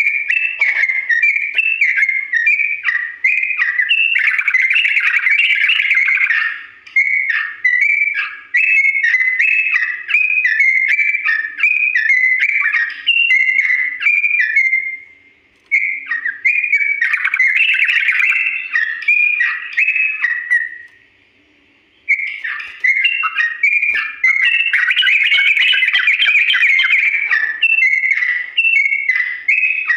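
Yellow-vented bulbul (trucuk) singing a long, fast rolling run of clear chattering notes, pausing briefly about halfway and again for a second near two-thirds of the way in.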